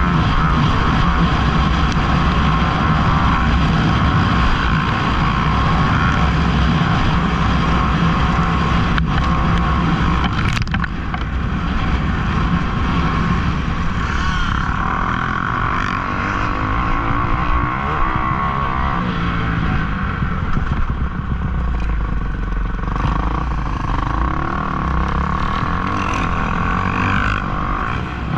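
Motocross dirt bike engines running under throttle, loud and continuous, with a couple of sharp clicks about ten seconds in.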